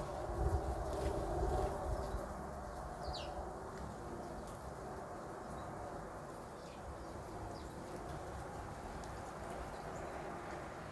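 Outdoor background noise with a steady low rumble, and a few short, high bird chirps about three, four and a half, and seven seconds in.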